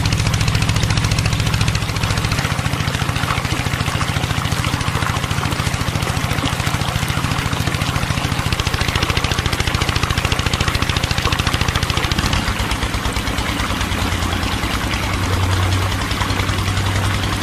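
Small motor of a home-made miniature tractor running steadily, with a rapid, even chatter. Its low hum changes pitch about two-thirds of the way through.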